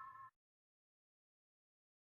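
Near silence: the faint tail of a whistled note stops abruptly about a third of a second in, followed by dead silence.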